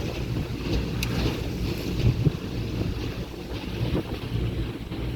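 Speedboat engine running steadily under way, with wind buffeting the microphone and water rushing past the hull.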